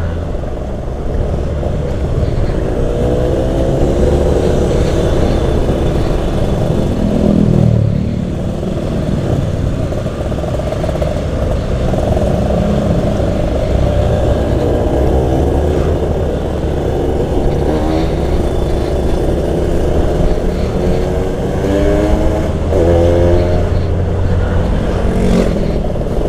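Two-stroke motorcycle engine running on the move, its pitch climbing repeatedly as it revs up through the gears, over a steady low rumble of wind on the microphone.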